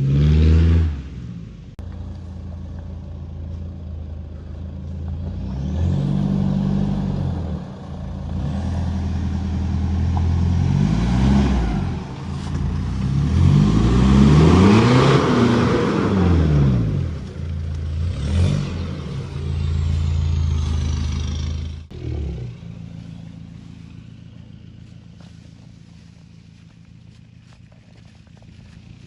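Toyota Prado 150's 3.0 four-cylinder turbodiesel through a straight-pipe exhaust, its revs rising and falling several times. About three-quarters through the sound drops off suddenly and fades to a low steady hum.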